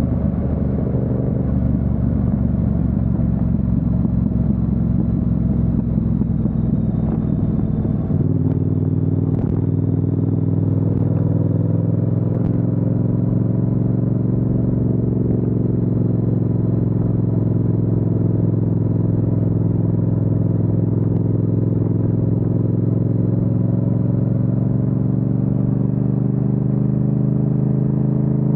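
Yamaha MT-07's parallel-twin engine under way on the road, heard from the bike itself: a rougher rumble for the first eight seconds or so, then a steady engine note whose pitch rises slowly as the bike gathers speed.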